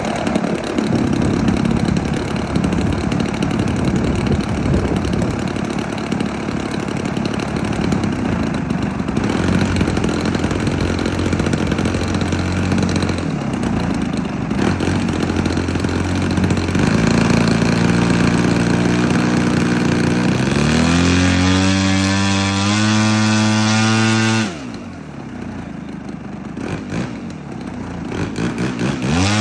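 A radio-controlled model airplane's small combustion engine running. Its pitch steps up several times through the second half, drops off sharply about three-quarters of the way through, then climbs again near the end.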